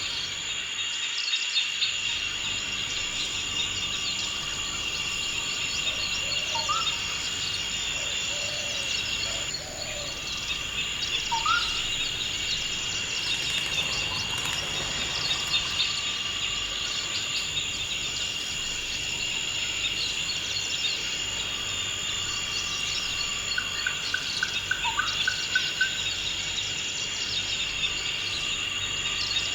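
Forest ambience: a steady, high-pitched chorus of insects, with a bird giving a short rising whistle now and then, about three times, and a quick run of repeated notes near the end.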